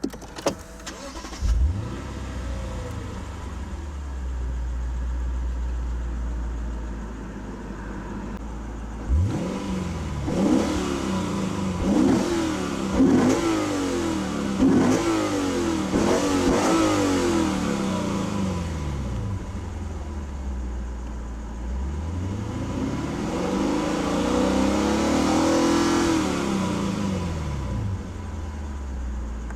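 2015 Lexus RC F's 5.0-litre V8 starting about a second and a half in and settling to a steady idle. From about nine seconds it is blipped in about six quick revs. Later it is revved up slowly and let fall back.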